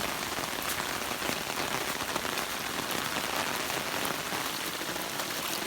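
Steady rain falling: an even hiss with scattered taps of individual drops.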